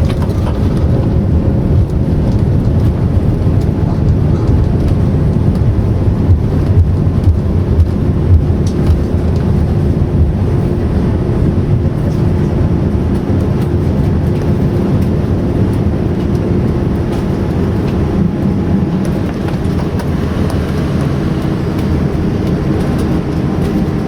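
Jet airliner cabin noise: the steady low rumble of the engines and airflow, with a few faint steady tones running through it.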